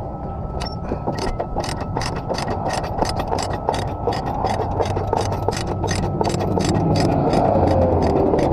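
Heavy vehicle engine idling, with a rapid, regular ticking of about four to five clicks a second starting about a second in.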